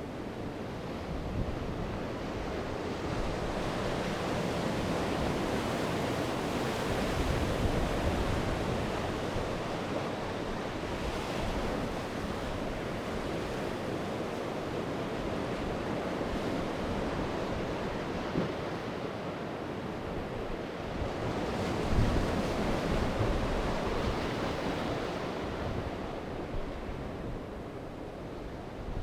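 Sea surf: waves breaking and washing on the shore in an even rush that swells and ebbs, with wind buffeting the microphone. The loudest surge, with a low rumble, comes about three quarters of the way in.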